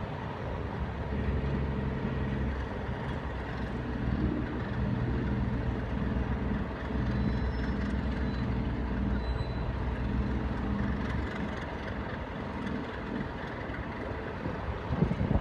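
English Electric V12 diesel engines of Class 37 locomotives running steadily, a low engine drone whose level swells and eases slightly.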